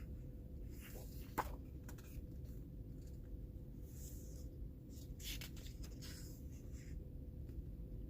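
Paper pages of a thick coloring book being handled and turned, brief rustles with a sharp tap about a second and a half in, over a steady low hum.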